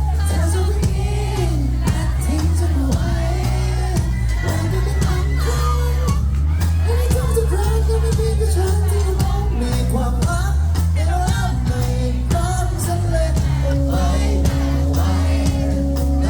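Live pop-rock band playing a song with heavy bass and drums and a lead singer, crowd voices and whoops mixed in.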